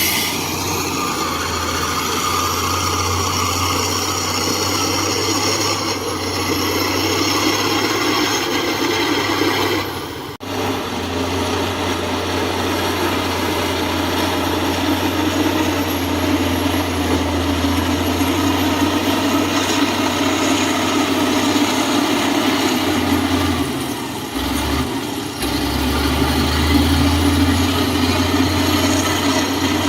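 Heavy earthmoving machine's diesel engine running steadily, with a low hum. It drops out briefly about a third of the way in and dips again for a moment near the end.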